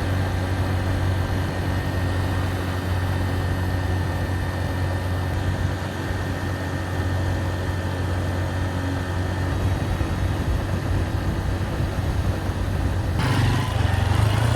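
Honda XR150L's single-cylinder engine running steadily. About 13 seconds in, its note rises slightly and more rushing noise joins it.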